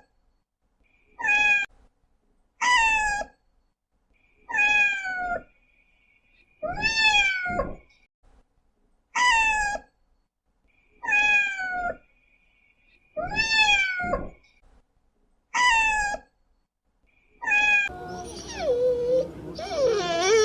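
A cat meowing over and over, about one meow every two seconds, each call falling in pitch. Near the end a different, continuous sound with shifting pitches takes over.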